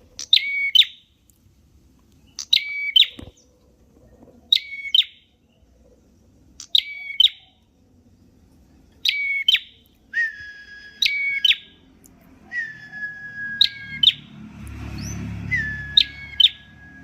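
A prenjak merah (prinia) singing: a short call of sharp, clipped notes over a brief whistle, repeated about every two and a half seconds. From about ten seconds in, the calls run into longer held whistles that fall slightly in pitch.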